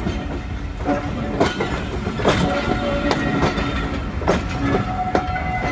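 Train running on the rails close by: a steady rumble with irregular clanks and knocks, and a few faint held tones.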